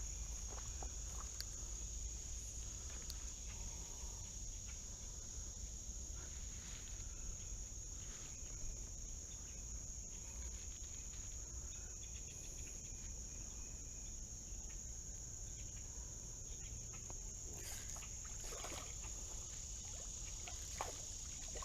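Insects singing in a constant high-pitched drone, with a few faint rustles and clicks, a little stronger near the end.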